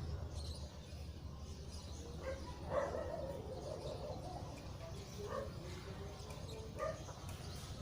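A few short animal calls, the loudest about three seconds in and two smaller ones later, over a steady low outdoor rumble.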